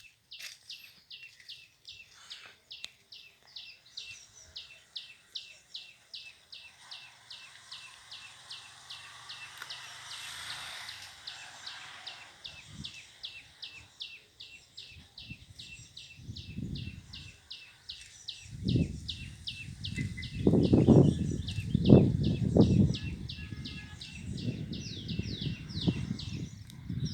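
A bird calling a rapid, steady series of short high chirps, about four a second. From about two-thirds of the way in, loud irregular low rumbles come and go over it.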